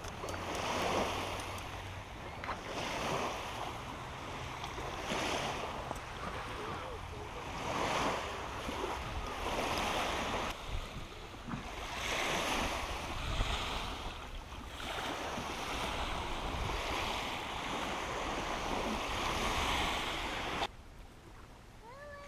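Wind rushing on the microphone in uneven gusts, cutting off suddenly near the end.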